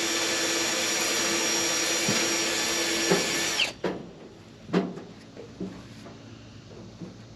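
A motor-driven power tool running steadily with a whir, cut off about halfway through, then a few light knocks as it is handled.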